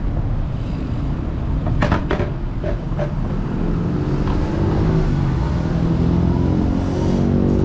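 Road traffic: a steady low rumble, with a motor vehicle's engine running close by and rising slightly in pitch from about halfway through. A few short clicks come about two seconds in.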